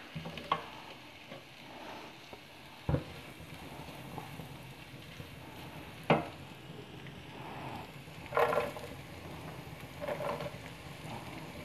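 Chopped garlic and cumin seeds sizzling in olive oil in a nonstick pan, stirred with a silicone spatula, with a few sharp knocks and scrapes of the spatula. Chopped onion is tipped into the hot oil in the later seconds.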